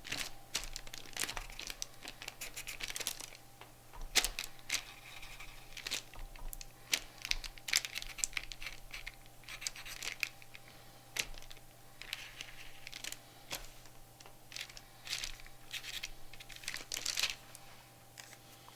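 Sharpie marker drawing on paper in short, irregular scratchy strokes, some with a faint squeak, with paper rustling.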